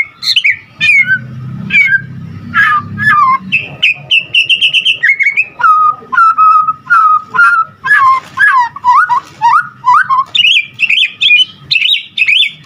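White-rumped shama singing a loud, varied song full of mimicked phrases: sliding whistles, a quick rapid trill about four seconds in, then a string of lower swooping notes and a high chattering run near the end.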